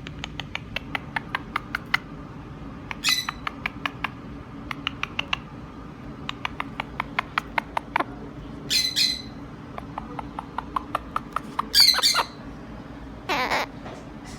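Pet bird giving runs of quick short chirps or clicks, several a second, broken by four harsh squawks. The loudest squawk comes about twelve seconds in.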